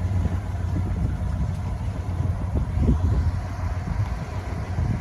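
1956 Ford Thunderbird's 312 V8 engine running with a steady low rumble, swelling slightly about three seconds in.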